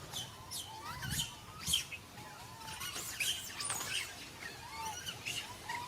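Birds chirping: a quick series of short, high, falling chirps, with softer whistled notes beneath them.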